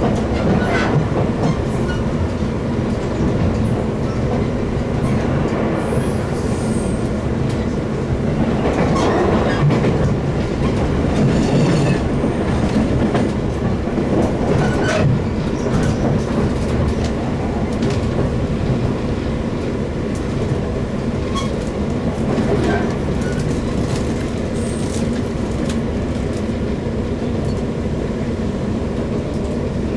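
JR West 117-series electric train with MT54 traction motors running, heard from on board: a steady rumble and hum. Wheels click over rail joints now and then, and a brief high-pitched squeal comes about six seconds in.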